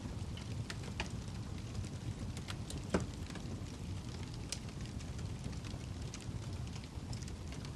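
Wood fire burning in a fireplace: a steady low rumble of flames with scattered sharp crackles and pops from the burning log, the loudest pop about three seconds in.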